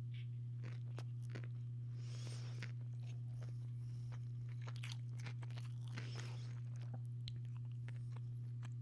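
Close-up chewing of a sandwich: biting, crunching and wet mouth clicks scattered through, over a steady low hum.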